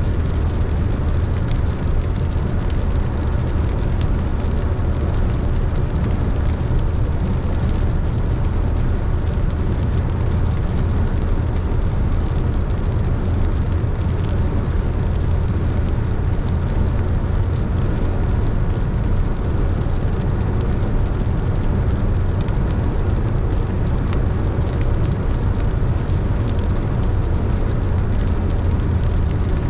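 Car driving on a wet road in the rain: a steady low rumble of engine and tyres with an even hiss of rain and tyre spray.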